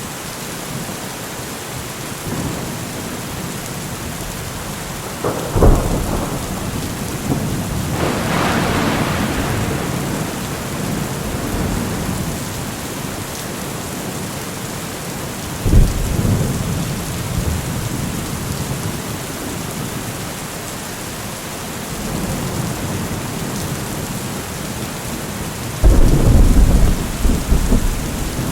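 Steady heavy rain with thunder: sharp cracks about five seconds in, near the middle, and a long rolling peal near the end, with a rumble swelling between them.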